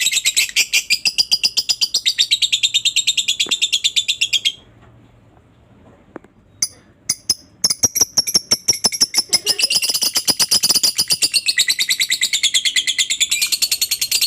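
Lovebird's long chattering song (ngekek): very fast, high chirps running together at more than ten a second. It breaks off about four and a half seconds in, comes back as a few scattered chirps, then runs on steadily again.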